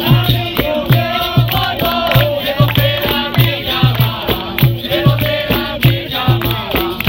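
Capoeira roda music: a group singing in chorus over a steady drum beat about twice a second, with a berimbau's twanging notes switching between two pitches and a shaken rattle.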